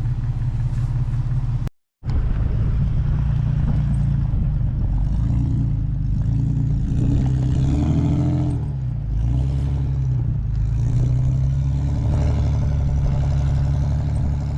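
Vehicle engine working under load as it drives through deep snow on tire chains. The engine note drops in pitch past the middle and then picks back up. The sound cuts out completely for a moment about two seconds in.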